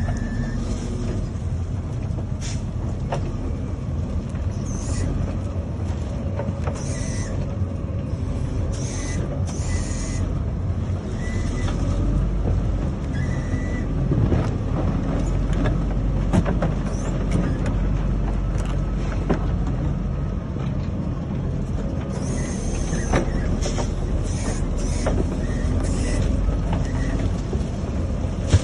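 Hidromek MG600 motor grader's diesel engine running steadily, with short high-pitched squeaks and creaks coming and going over it.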